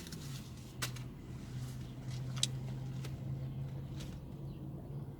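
Steady low hum with a few light clicks and rustles scattered through it.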